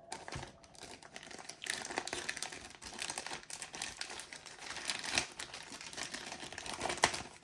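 Packaging and sheets crinkling and rustling as they are handled and unwrapped, with irregular crackles throughout.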